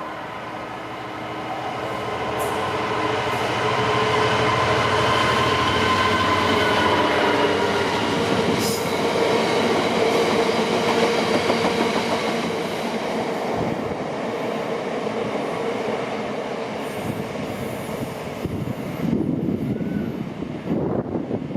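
A train running through the station without stopping: it builds over the first few seconds, passes with a steady whine over the rumble of its wheels, then eases off, with low buffeting near the end.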